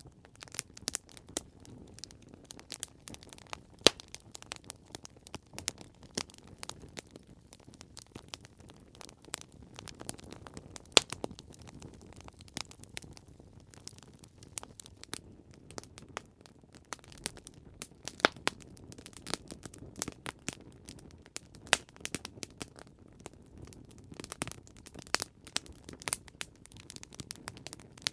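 Campfire crackling: irregular sharp pops and snaps of burning wood, a few much louder than the rest, over a low steady hiss of flame.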